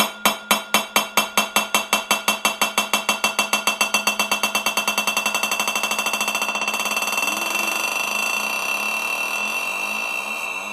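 A short sound looped over and over, repeating faster and faster until the repeats blend into a steady buzzing tone.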